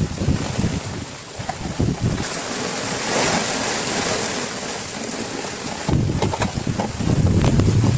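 Storm wind gusting against the microphone over a steady hiss of heavy rain and water, the hiss swelling for a few seconds mid-way, with a few small knocks.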